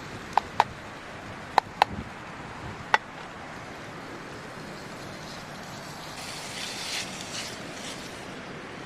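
Five sharp clicks or taps in the first three seconds, two quick pairs and then a single one, over a steady background hiss; a brief rustle comes later.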